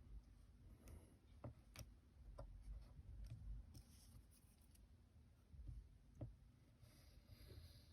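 Near silence with a few faint, scattered light clicks and taps from handling paper and crafting tools.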